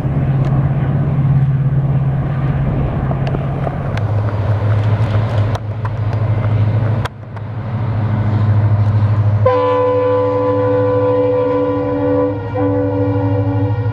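Diesel locomotive engine running with a steady low throb. A little past halfway its horn sounds one long blast, briefly broken near the end.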